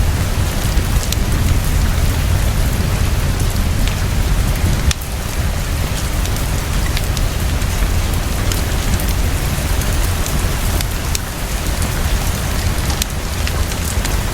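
Heavy, steady rainfall with a deep low rumble underneath and scattered sharp ticks.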